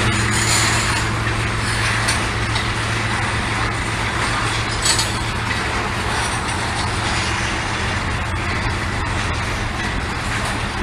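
Norfolk Southern freight train's diesel locomotives running with a steady low drone over an even rumble, with a short sharper clack about five seconds in.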